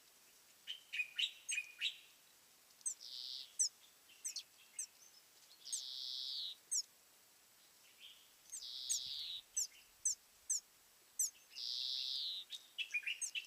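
A songbird singing a repeated phrase about every three seconds. Each phrase mixes short high, falling notes and lower chirps with a harsh note lasting under a second.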